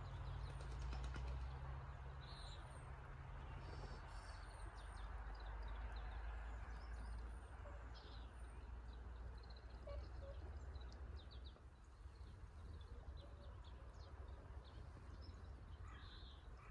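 Scattered short, high bird chirps over a faint steady low rumble.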